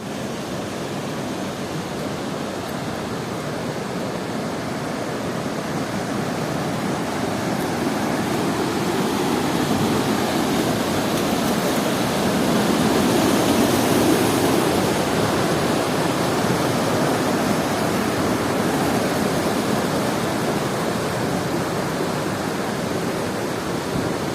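Small waterfall pouring and splashing, a steady rush of falling water that swells slightly midway and eases again.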